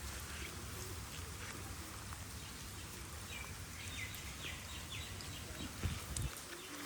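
Steady rain falling. Partway through, a bird calls a quick run of about six short notes, and near the end there are two low thumps.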